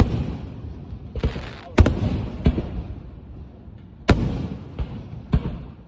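Fireworks bursting at a show: a run of about six or seven sharp booms at uneven intervals, some in quick pairs, each trailing off in a rumble.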